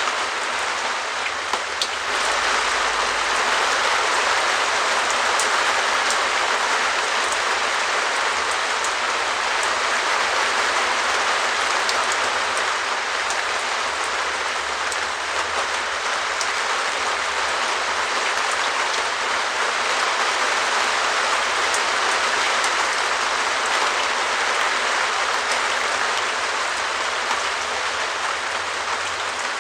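Steady rain on a translucent perspex shed roof: a dense, even patter with separate drop ticks scattered through it.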